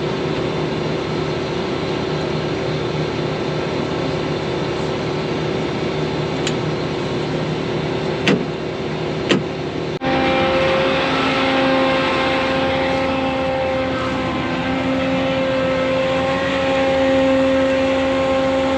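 Farm machinery engine running steadily, with two sharp clicks just past eight and nine seconds in. About ten seconds in, it cuts abruptly to a different, slightly louder steady engine hum.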